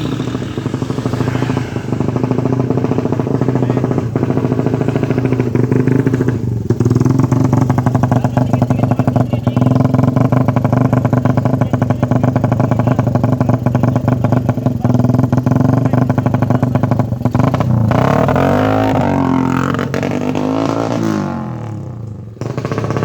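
450cc drag bike engine running steadily and loudly. Late on, a few throttle blips make the pitch rise and fall, then the engine settles back.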